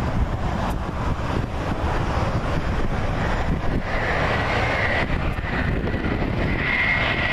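Jet airliner engines running, a steady low rumble with a high whine that comes in about halfway and grows louder.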